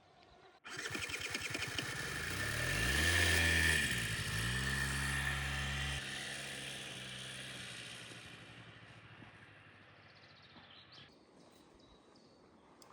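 A vehicle engine starts up suddenly and runs, revving with its pitch rising and falling, then eases off and fades away.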